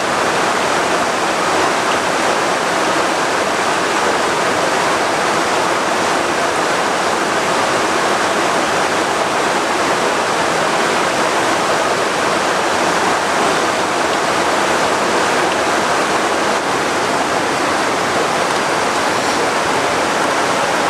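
Heavy tropical rain pouring down steadily: a loud, even, unbroken hiss of a downpour.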